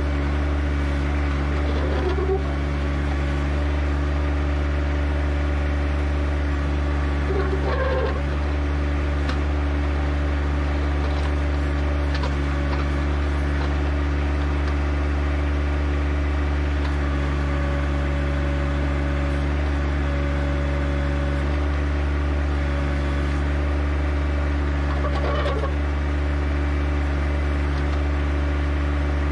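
John Deere 1025R compact tractor's small three-cylinder diesel running steadily, with a few short added sounds about 2, 8 and 25 seconds in.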